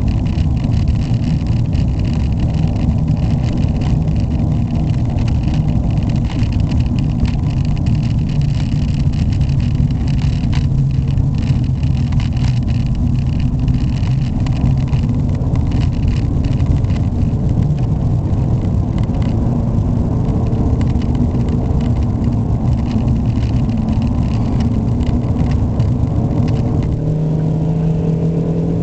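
Ford Mondeo Estate's 1.6-litre four-cylinder petrol engine pulling along steadily with road noise. Near the end the engine note begins to climb as it accelerates. The owner calls the engine very noisy and rev-lazy.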